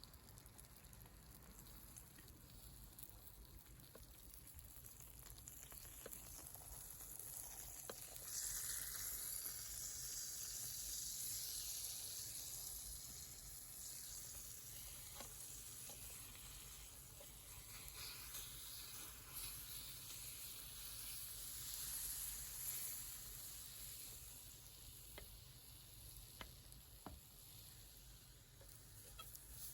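Food sizzling in a frying pan over a campfire, the sizzle swelling louder partway through, with a few faint crackles.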